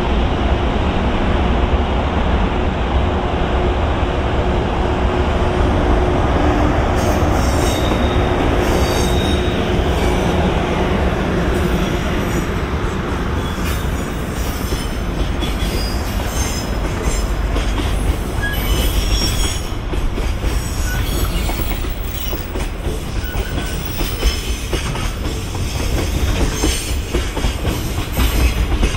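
A JR Freight EH500 electric locomotive hauling a long container freight train past, followed by its container wagons rolling by: a steady loud rumble of wheels on rail, with rhythmic clacking over rail joints and brief high-pitched wheel squeals now and then.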